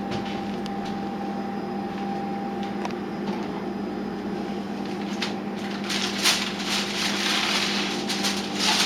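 Steady electric hum of a kitchen oven or appliance running. About halfway through, a louder hiss rises, with a few sharp knocks, as the hot pan of chicken wings is taken out of the oven.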